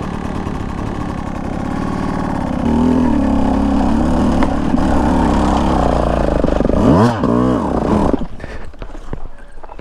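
Two-stroke Beta 200 dirt bike engine running, its pitch stepping up about three seconds in, then two quick throttle blips near seven seconds before the engine sound cuts off about eight seconds in. Scattered light clicks and knocks follow.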